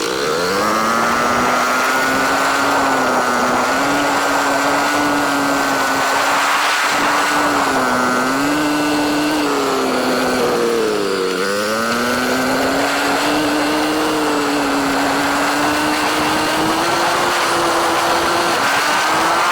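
Dirt bike engine running under way, heard close from a camera mounted on the bike: it revs up at the start, holds a fairly steady pitch with small rises and falls, eases off about eleven seconds in and picks back up, over a steady hiss.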